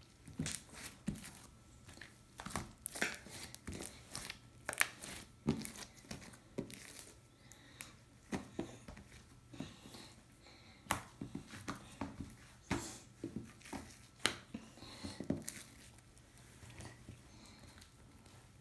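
Stretchy slime being squished and pulled by hand, making irregular sticky clicks and pops, several a second.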